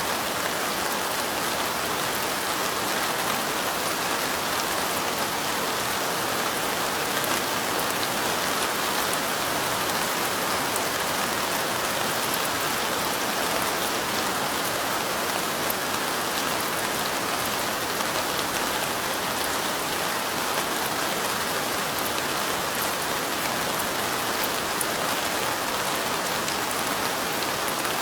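Steady rain pattering on a window pane, a dense, even hiss of many small drops with no let-up.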